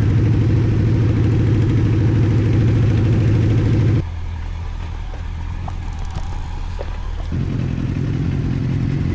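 Motorcycle engines idling steadily. About four seconds in, the sound drops abruptly to a quieter, lower hum for about three seconds, then the fuller idle comes back.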